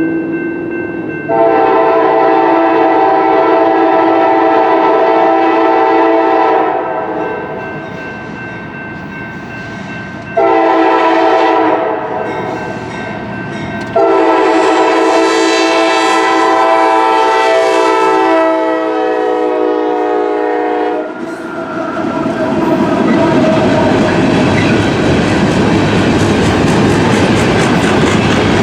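Locomotive air horn sounding three chord blasts: a long one, a short one, then a long one whose pitch sags near its end. About three quarters of the way through, the horn gives way to the loud rumble and wheel clatter of the train rolling past.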